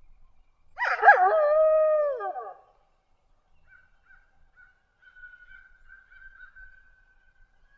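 A canine howl sound effect: one call, wavering at its start, then held and dropping away at the end. It is followed by a faint, thin, high drawn-out howl.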